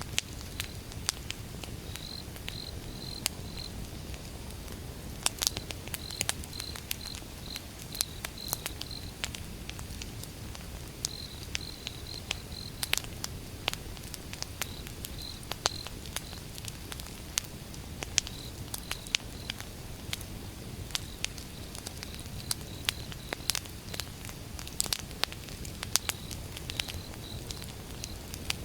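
Wood fire burning, crackling with many sharp irregular pops over a low steady rumble. A cricket chirps in short high-pitched trains in the background.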